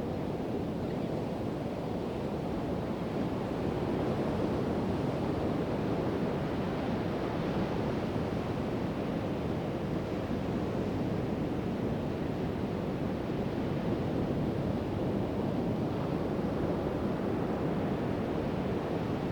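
Pacific Ocean surf breaking and washing ashore as a steady rushing wash, growing a little louder over the first few seconds.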